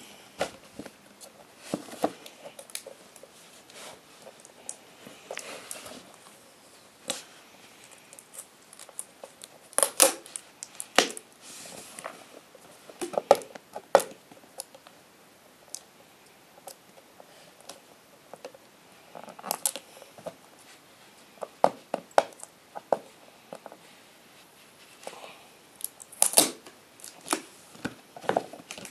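Packaging being handled by hand during an unboxing: scattered clicks, knocks and taps of plastic and cardboard, with short stretches of rustling. The loudest knocks come about ten seconds in, around fourteen seconds, and near the end.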